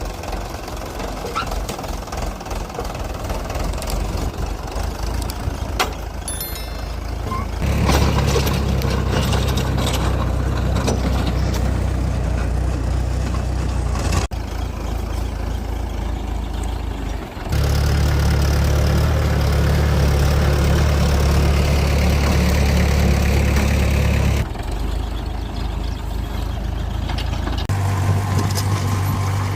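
Mahindra 575 DI tractor's four-cylinder diesel engine running with a steady, deep hum. The sound changes abruptly several times, dropping and returning in level.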